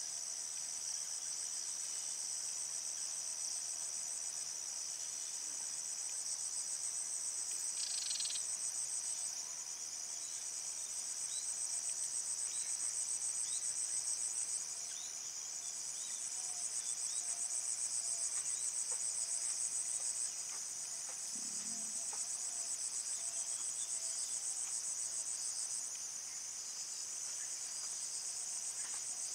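A chorus of insects, likely crickets, giving a continuous high trill that eases and swells every few seconds.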